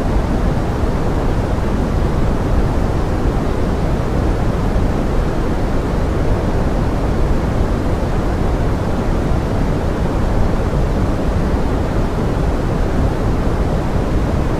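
Steady pink noise blended with forest rain: an even, dull rushing sound, heaviest in the low end, with no single drops or other events standing out.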